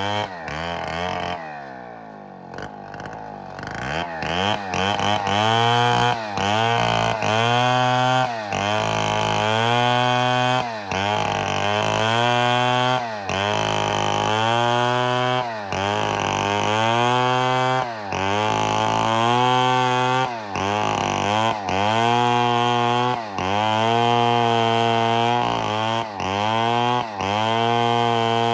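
Two-stroke chainsaw engine dropping to a lower speed, then revved up and down again and again, its pitch rising and falling about every one and a half seconds.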